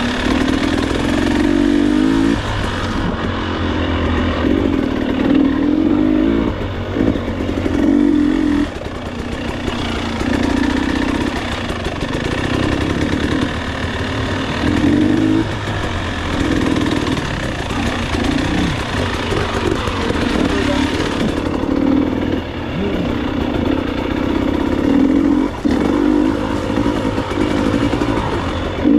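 Enduro motorcycle engine revving up and down over and over as the bike is ridden along a rough trail, with wind noise throughout.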